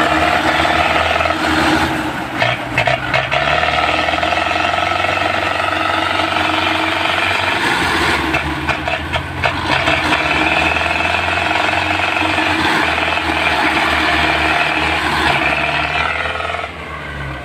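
Belarus tractor's diesel engine running hard, with rattling clatter about two seconds in and again around eight to ten seconds in, the sound dropping away near the end.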